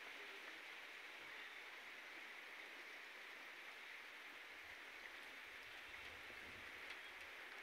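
Faint, steady rain falling, heard as an even hiss.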